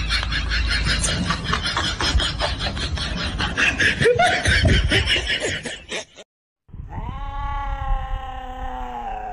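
A rapid, high stuttering sound, then after a brief cut a cat's long yowl that slowly falls in pitch.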